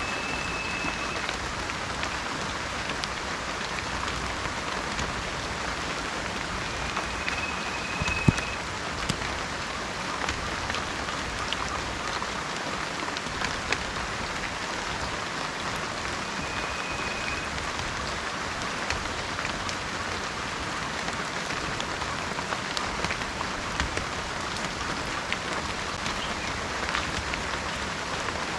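Heavy rain falling steadily, with scattered drop ticks and one sharper tap about eight seconds in. A short, high, steady tone sounds three times over it.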